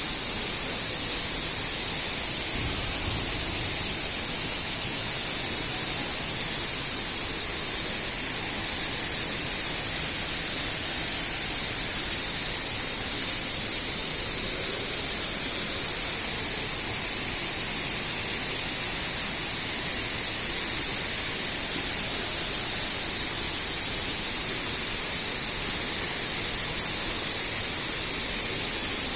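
Steady, even rushing hiss of falling water, unchanging throughout.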